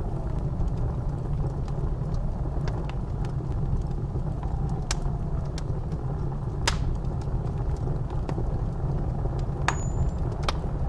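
Blizzard wind blowing with a deep steady rumble and a faint howl that rises and falls, over a wood fire crackling with scattered sharp pops, two of them louder about seven and ten seconds in.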